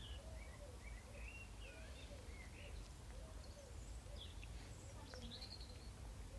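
Birds chirping: a run of short rising-and-falling notes, several a second, over a faint steady low rumble.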